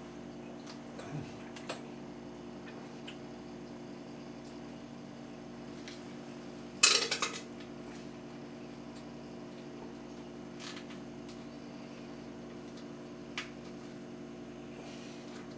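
Kitchen utensils clinking and knocking against a dish while mixing chicken salad. There are a few light clicks, then a loud rattling cluster of clinks about seven seconds in and two more single clicks later, over a steady low hum.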